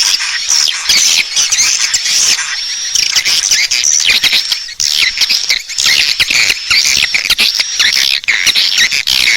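A flock of swiftlets calling: a dense, unbroken chorus of high, rapid chirps and twitters. This is a swiftlet lure call, the sound played at a swiftlet house to draw the birds in to roost and nest.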